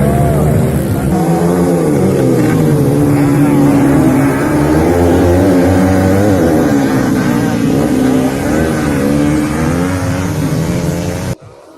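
Several motocross bike engines running and revving together, their pitches wavering up and down as the riders work the throttles. The sound cuts off abruptly near the end.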